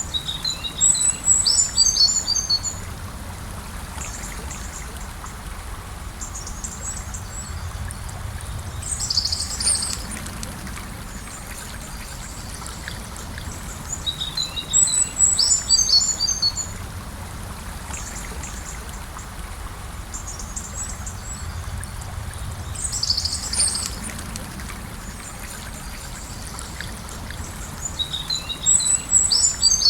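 Gentle river flowing with a steady rush of water, over which a songbird sings the same short twittering phrase three times, about every fourteen seconds, with a shorter high call between each.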